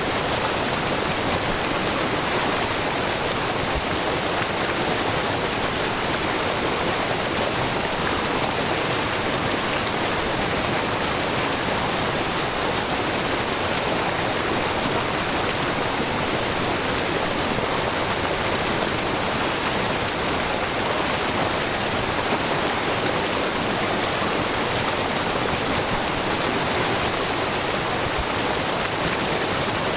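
Waterfall made of many thin streams of spring water spilling over a low, wide rock face, with a steady, even rush of falling and splashing water.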